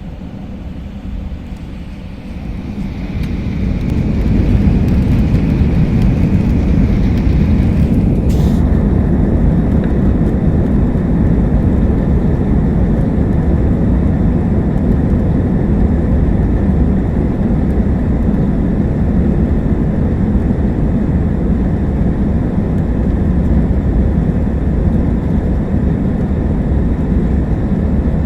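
Airplane engines spooling up to takeoff power about two to four seconds in, then a steady, loud roar with a deep rumble through the takeoff run, with a faint whine in the first few seconds and a brief click about eight seconds in.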